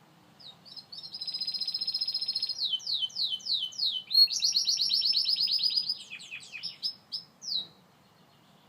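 Gloster canary singing one song phrase: a fast rolling trill, then four falling notes, then a second fast trill, ending with a few scattered notes and a last downward sweep near the end.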